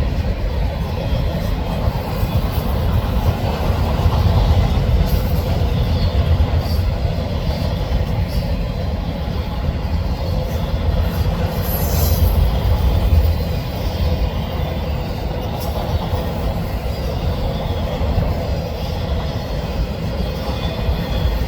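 Canadian National freight train of auto rack cars rolling past, a steady heavy rumble of wheels on rail with scattered clicks, and a brief high wheel squeal about halfway through.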